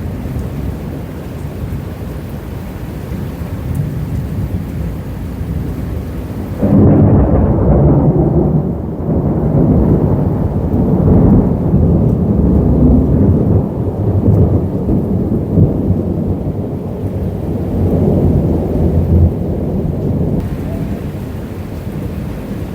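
Thunderstorm: steady rain, then a long rolling rumble of thunder that starts suddenly about seven seconds in and dies away after about thirteen seconds.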